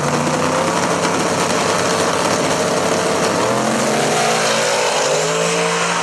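Drag race car engine running loud and steady; its pitch dips and then climbs again about halfway through.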